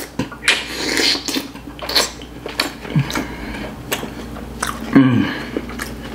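Close-up mouth sounds of someone eating syrup-soaked gulab jamun: wet chewing, lip smacks and finger-licking clicks, with a short hum of enjoyment about five seconds in.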